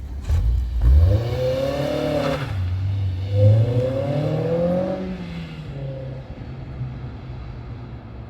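Honda S2000 (AP2) 2.2-litre four-cylinder through an HKS Hi-Power dual exhaust with the stock catalytic converter, revving twice. A quick rise and fall about a second in, then a longer rev a few seconds in, before it settles back to steady low running.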